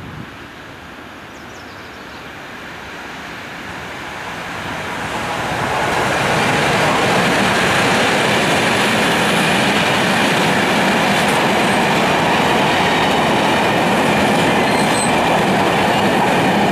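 A Class 66 diesel locomotive with a loaded ballast train approaches and passes, growing louder over the first six seconds. Then the loaded ballast hopper wagons roll by with a steady loud noise of steel wheels on rail, with a couple of faint high wheel squeals.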